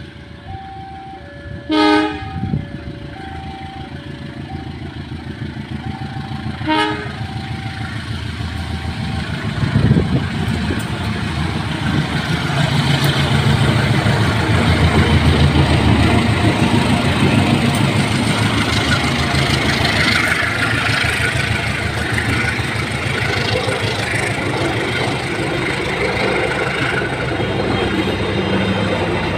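A two-tone level-crossing alarm rings, then a diesel locomotive horn gives a loud blast about two seconds in and a shorter one about five seconds later. The passenger train pulls away with two GE diesel-electric locomotives, a CC 203 leading and a CC 201 behind. From about ten seconds in the locomotives' engines pass close by, growing louder, and then the passenger coaches roll past with wheel clatter.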